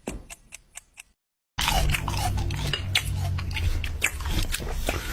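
Even ticking, about four ticks a second, stops about a second in. After a short silence come dense, close-up crunching and clicking sounds.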